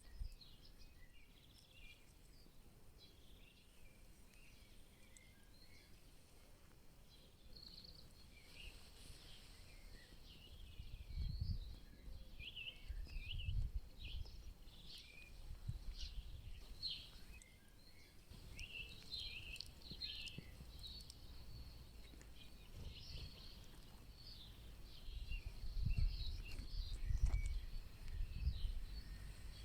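Several small songbirds singing and chirping, short varied phrases overlapping throughout. Bursts of low rumble come and go, strongest near the end.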